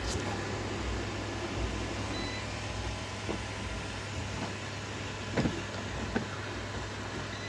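Robot vacuum running with a steady motor hum, with a click at the start and a few short knocks, the loudest about five and a half seconds in.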